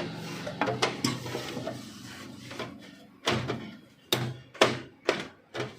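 Plastic body panels of an HP LaserJet 1020 printer being pressed and snapped into place: a series of about seven sharp clicks and knocks, spaced irregularly, the loudest in the second half.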